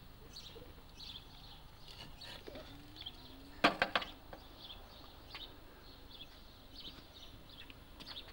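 Small birds chirping and singing over and over in the background, with a quick run of sharp knocks about three and a half seconds in.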